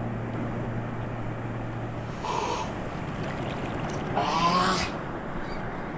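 Acoustic guitar music fades out over the first two seconds, leaving a steady rushing noise of strong wind. Two short pitched calls come through the wind, about two and four seconds in.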